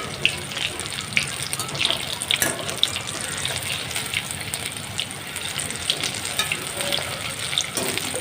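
Battered chicken pakoda pieces deep-frying in hot oil: a steady sizzle with frequent small crackling pops.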